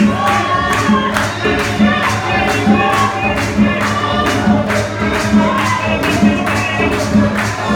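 Gospel music: a group of voices singing over a bass line, with a tambourine or similar shaker keeping a steady beat of about two strokes a second.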